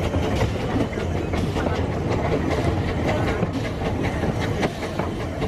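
Narrow-gauge passenger train running, heard from an open carriage: a steady low rumble with irregular clicks and rattles of the wheels on the track.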